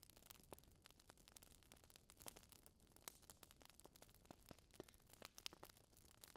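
Faint crackling fire: irregular small pops and snaps of varying strength over a soft hiss.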